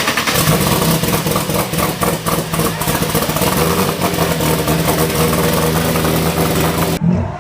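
A loud car engine running at a steady speed, with rapid crackles over a rough, even note; it cuts off abruptly near the end.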